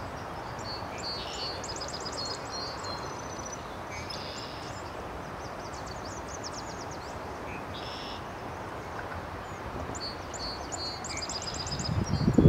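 Small birds calling in quick series of high chirps and trills, several times over, above a steady outdoor background hiss. Right at the end, wind begins buffeting the microphone.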